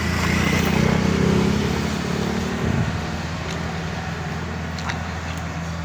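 An engine running steadily with a low hum, a little louder in the first couple of seconds, with a few light clicks in the second half.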